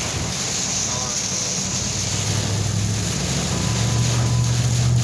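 Truck engine running with a steady rush of wind and storm noise in the cab; the engine's low hum grows louder partway through.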